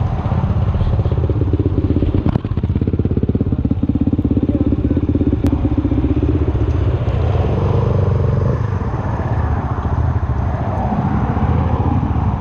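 Suzuki Van Van 125's single-cylinder four-stroke engine running under way through its aftermarket Black Widow exhaust, a steady, fast run of firing pulses.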